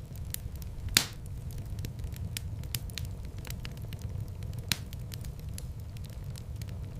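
Wood fire burning in a fireplace: a steady low rumble of flames under frequent sharp crackles, with a loud pop about a second in and another a little past the middle.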